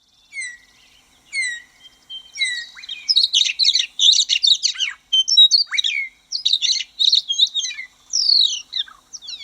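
Male western meadowlark's flight song: three sharp down-slurred whistles about a second apart, then a hurried run of short-spaced whistles and warbles.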